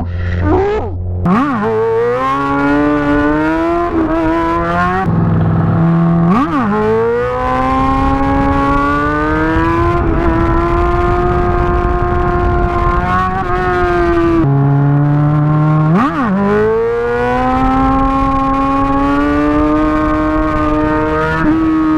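Sport bike engine blipped sharply about a second in, then climbing and holding at high revs as the bike is ridden; twice more it drops back, blips and pulls up again. The bike is running with its exhaust fallen off.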